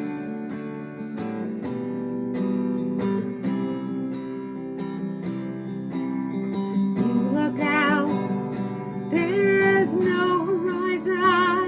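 Acoustic guitar strummed in a gentle song intro, with a woman's singing voice, wavering with vibrato, coming in about seven seconds in.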